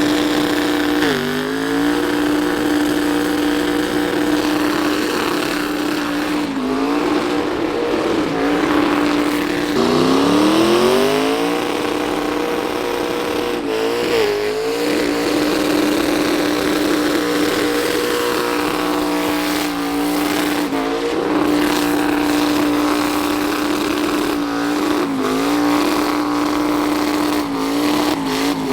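Truck engine revved up and held at high, steady revs for long stretches, dropping briefly and climbing back several times.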